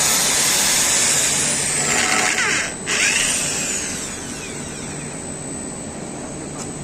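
Power drill drilling into an I-beam. It runs loudly, cuts out briefly just before three seconds in as the motor winds down, then spins back up and runs on more quietly.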